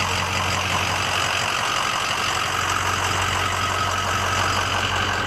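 Ford 6.0 L Power Stroke V8 turbo-diesel idling steadily, with a fast even ticking over a low hum.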